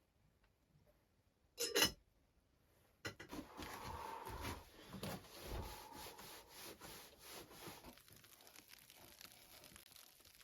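A short sharp noise, then several seconds of rough rubbing and scraping strokes, as of wood being handled or worked, fading to a faint rustle near the end.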